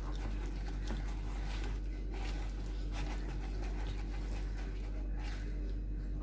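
Thick, wet spice paste being mixed by hand in a bowl: a steady run of soft, wet, squishing strokes. It is the tandoori marinade of chili, ginger-garlic and salt, worked with a little water to keep it from drying out.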